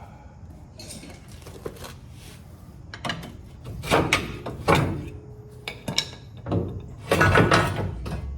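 Hand tools and steel suspension parts clanking and clinking in irregular knocks and scrapes, a few ringing briefly, sparse at first and busier from about three seconds in.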